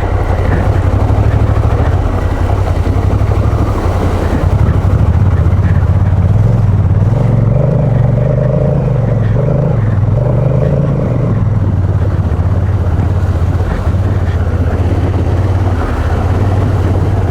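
Honda Africa Twin's parallel-twin engine running as the bike rides along, with road and wind noise. About halfway through the revs rise for a few seconds, then settle back.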